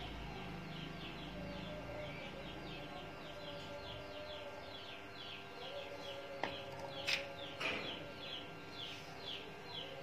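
Birds chirping: a steady run of short, high, falling chirps, two or three a second. A few sharp clicks stand out a little past the middle.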